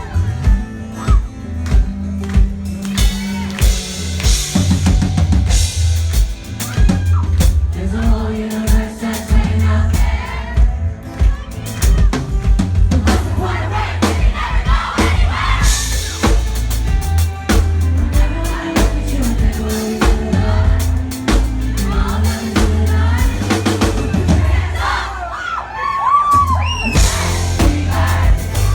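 A live pop song played by a band, with a steady drum kit beat, heavy bass and singing.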